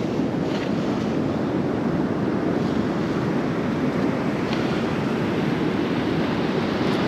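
Steady wash of ocean surf breaking on a beach, with wind buffeting the microphone.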